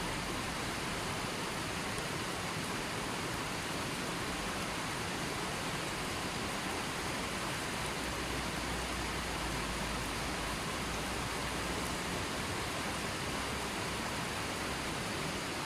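River water flowing and rushing in a steady, even wash of sound.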